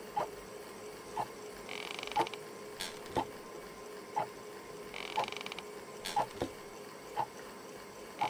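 Clock ticking steadily, about one tick a second, over a faint steady hum. A short high buzzing trill comes twice.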